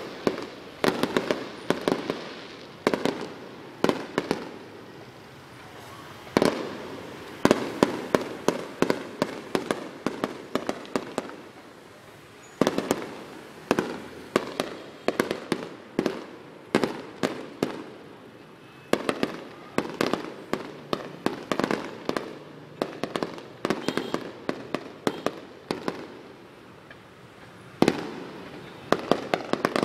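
Fireworks display: aerial shells bursting in rapid clusters of sharp bangs, volley after volley every second or two, with crackling between the loudest reports.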